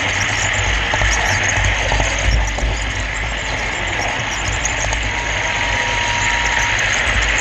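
Steady rolling rumble and whir of a camera car running along a model railroad track, heard from the car's on-board camera.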